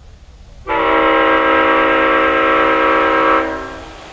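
Horn of a 1/8-scale ride-on model locomotive sounding one long, steady blast that starts suddenly and then fades away, over the low rumble of the train running.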